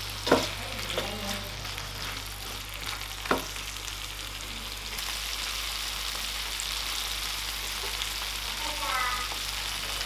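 Saucy chilli chicken with onions and peppers sizzling in a non-stick pan as a spatula stirs it, with two sharp knocks of the spatula against the pan in the first few seconds.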